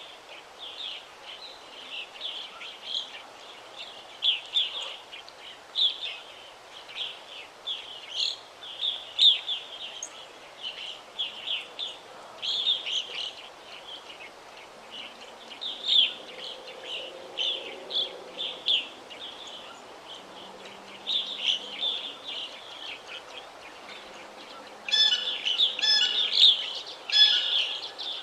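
Forest birds singing: a steady chorus of short, high chirps and trills, with a louder series of repeated calls near the end over a faint background hiss.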